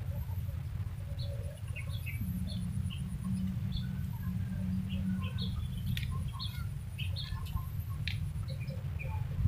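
Small birds chirping in short, scattered calls over a steady low rumble, with a low hum running for a few seconds early in the stretch.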